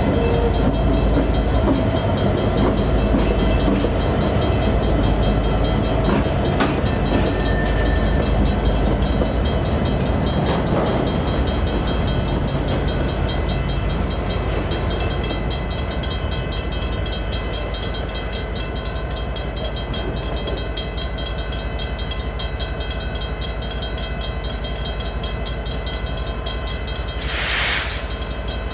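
Freight train led by EMD SD59MX diesel locomotives rumbling through a railroad crossing while the crossing bells ring with a rapid, steady ringing. A short hiss comes near the end.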